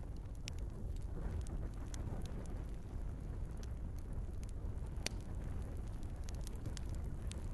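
Wood fire burning in a fireplace: a steady low rumble of the flames with scattered sharp crackles and pops from the burning logs, the loudest pop about five seconds in.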